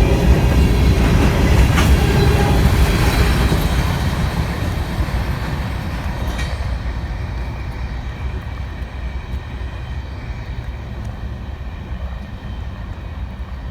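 A train rolling past on the tracks, its wheels and cars loudest at first, then fading over the following seconds as it moves away.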